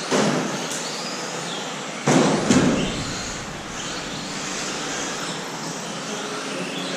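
Electric RC racing trucks running on the track: a steady hiss of tyres and motors with faint rising and falling motor whine, broken by a few sharp knocks, the loudest cluster about two seconds in.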